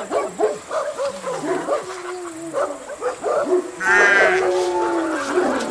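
Animal calls: a run of short dog yaps, then cattle mooing, with one loud call about four seconds in.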